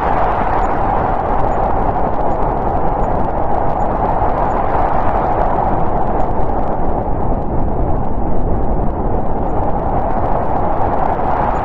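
Snowstorm wind blowing, a continuous rushing noise that eases slightly in the middle and builds again near the end.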